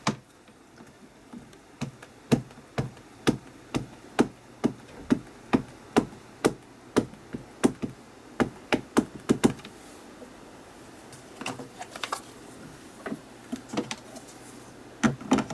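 Ink pad being dabbed onto a rubber stamp to ink it: sharp, even taps about two a second for several seconds, a little quicker near the end. A few fainter clicks follow.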